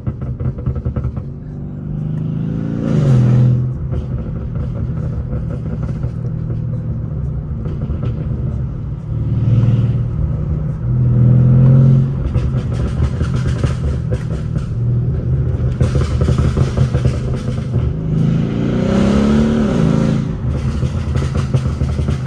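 Mercedes-Benz W218 CLS550's twin-turbo V8, running through downpipes and a straight-piped exhaust, under way and accelerating in several pulls. The engine note climbs and swells a few seconds in, again around ten to twelve seconds in, and near the end.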